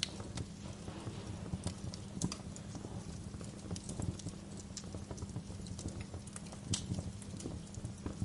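Wood fire crackling: irregular sharp pops and snaps over a steady low rumble, with the loudest pops at the very start, about two seconds in and near the end.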